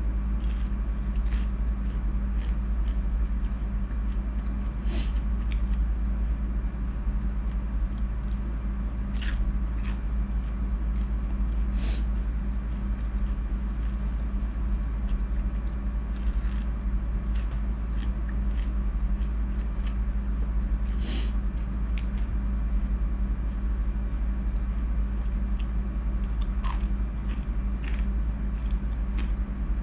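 Steady low electrical hum, with a few short sharp clicks and smacks of someone chewing spicy giant squid close to the microphone, spaced every few seconds.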